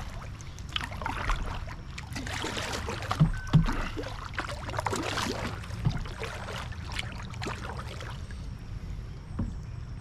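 Kayak on the water: paddle splashes and water noise, with a few sharp knocks about three and a half and six seconds in.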